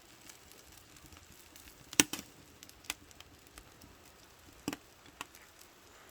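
Wood fire crackling in a brazier: a faint steady hiss with a few sharp pops, the loudest about two seconds in.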